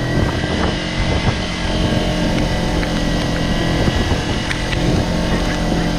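Kawasaki Versys-X motorcycle's parallel-twin engine running steadily while riding, with wind and road noise.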